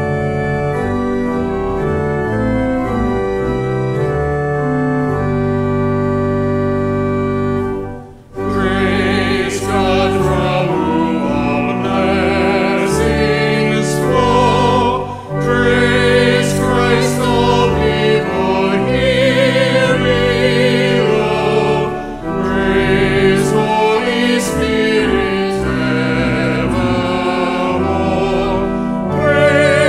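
Pipe or electric organ playing sustained chords for about eight seconds. Then singing with vibrato joins over the organ and carries on in phrases.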